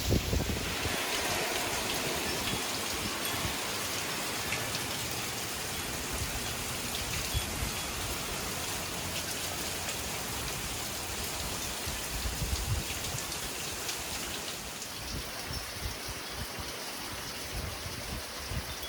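Steady rain from a tropical storm rain band falling on surfaces, with no pauses.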